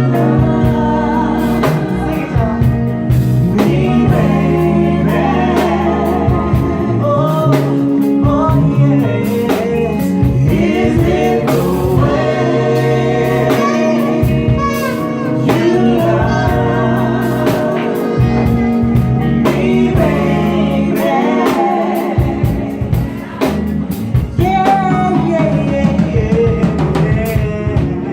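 R&B band playing live with a woman singing the lead, over drum kit and bass.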